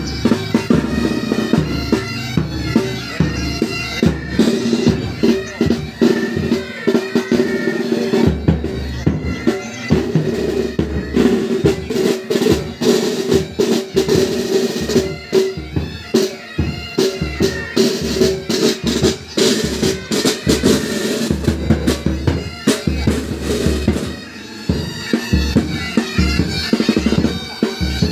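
Military pipe band playing: bagpipes sounding a tune over their steady drone, with side (snare) drums and bass drum beating throughout.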